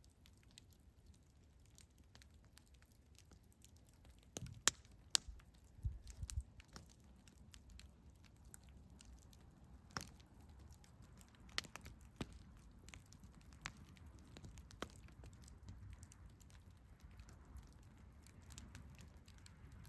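Campfire crackling: scattered sharp pops and snaps of burning wood over a soft low rumble, with a cluster of louder pops about four to six seconds in.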